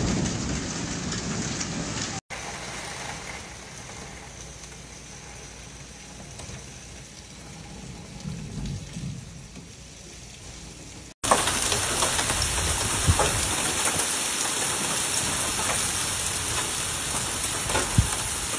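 Storm rain in three cut-together clips: a heavy wind-driven downpour, then a quieter steady rain, then from about eleven seconds in a loud, hissing shower of rain and hail with a few sharp hits.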